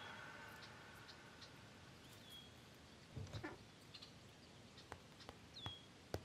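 Near silence in the open air: the last of the music dies away in the first second, then a few faint high bird chirps and scattered light clicks.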